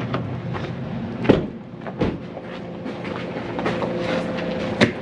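A vehicle's engine idling with a steady hum. Two thumps come about a second and two seconds in, and a sharp click near the end.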